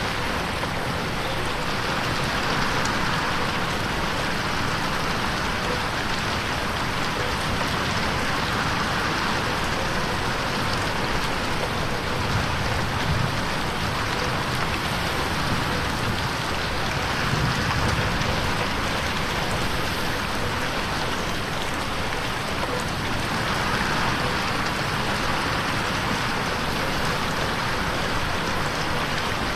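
Steady heavy rain falling on a window pane, an even dense patter with gentle swells in loudness every several seconds.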